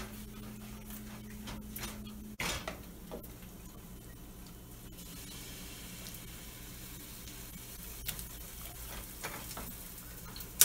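Tomatoes cooking down in a pan on the stove, sizzling, with a spoon stirring and a sharp knock against the pan about two seconds in.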